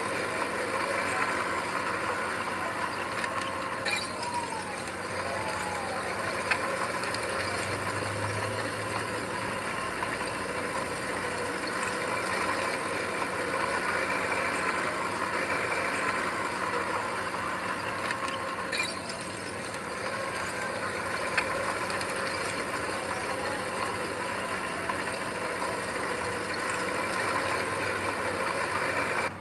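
Heavy diesel earth-moving machinery running steadily, with mechanical clanking and a couple of sharp clicks.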